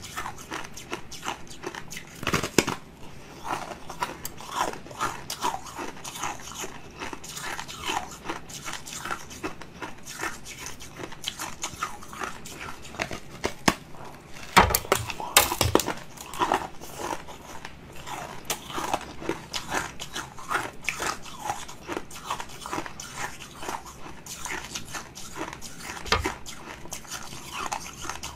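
A person biting and chewing a brittle purple crystalline slab of food: dense crunching and crackling, with the loudest bites about two seconds in and again around the middle.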